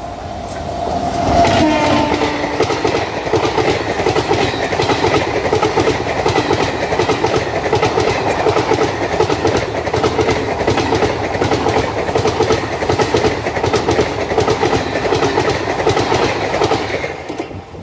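Indian Railways express train hauled by a WAP7 electric locomotive passing close by at full line speed. Its horn sounds as it approaches and ends about a second and a half in. The locomotive and its long rake of coaches then rush past with a loud, rapid clickety-clack of wheels over rail joints, which cuts off sharply near the end as the last coach goes by.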